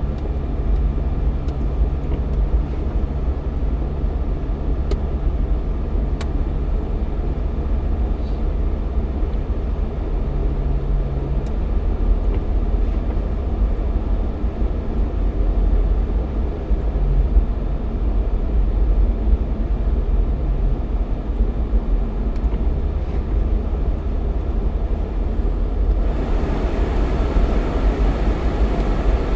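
Jeep Cherokee XJ driving down a highway: steady low engine and road rumble, with a faint hum that drops away about two-thirds of the way through and a rise in hiss near the end.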